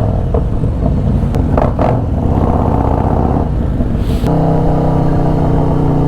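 Motorcycle engines running, uneven at first with a few sharp clicks, then about four seconds in one engine settles into a steady idle close by.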